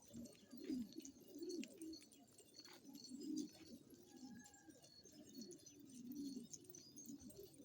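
Domestic pigeons cooing, with soft low coos following one another about once a second.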